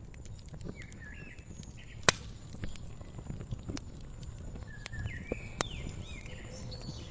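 Wood fire crackling with irregular snaps and a sharp loud pop about two seconds in, over a low rumble of flame. Small birds chirp in short phrases twice, near the start and again past the middle.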